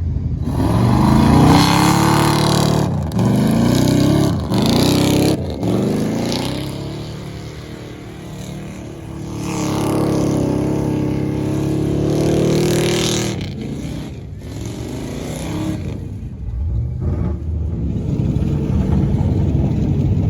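A car engine being driven hard, revving up several times in quick succession with the pitch climbing and cutting off between pulls. A few seconds later it makes one longer run-up before easing off.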